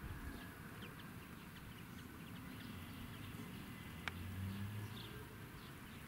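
Small birds chirping faintly: short high chirps scattered throughout. A single sharp click about four seconds in, followed by a low hum for about a second.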